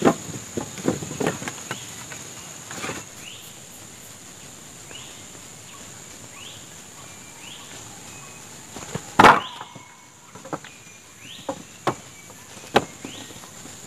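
Steady high-pitched drone of forest insects, with a short rising call repeating every half-second or so through the middle. Scattered sharp knocks of wood being worked, the loudest about nine seconds in.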